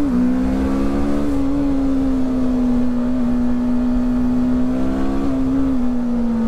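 Motorcycle engine running steadily under way, heard from the rider's seat. Its pitch drops at an upshift right at the start, holds level, and eases down slightly near the end as the throttle is rolled off, with a low rumble of wind throughout.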